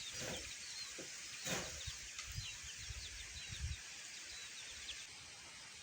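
Quick, high chirps of small birds, repeated over a rumble of wind gusting on the microphone, with one sharp knock about a second and a half in.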